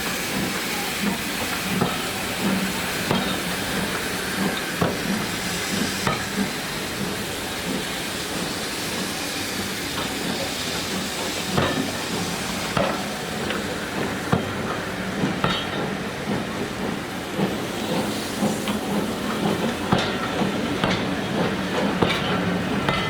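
Steam train at a station: a steady hiss of steam with scattered metallic clicks and knocks.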